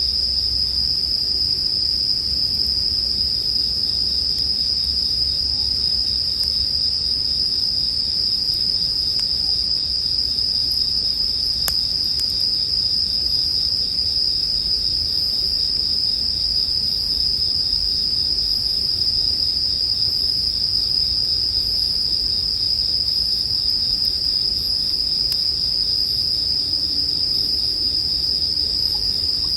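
Japanese bell crickets (suzumushi) singing in one continuous, steady high-pitched ringing chorus, with a single faint click about twelve seconds in.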